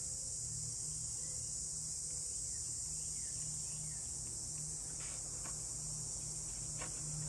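Steady high-pitched chirring of crickets in the background, with a low hum underneath and a couple of faint clicks about five seconds in and again near the end.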